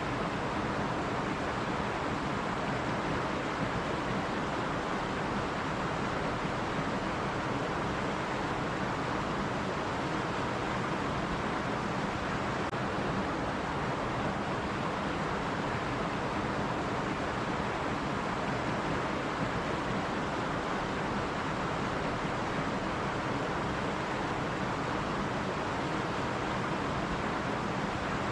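Stream water running and splashing over rocks, a steady rushing noise that does not change.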